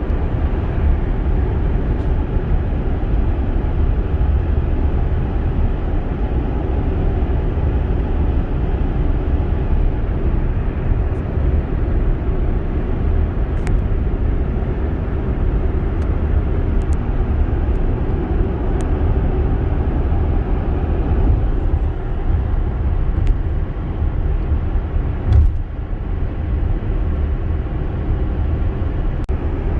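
Steady low rumble of tyre and road noise from a Tesla Model X driving along, with no engine note, and a few faint ticks.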